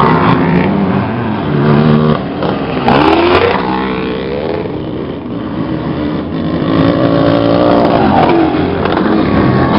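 Several vintage motocross motorcycle engines running at once, revving with the pitch rising and falling as the throttle opens and closes.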